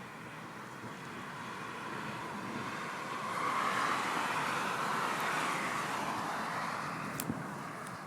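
A vehicle passing on the road: tyre and road noise swells to a peak about four seconds in, then fades away. A short click sounds near the end.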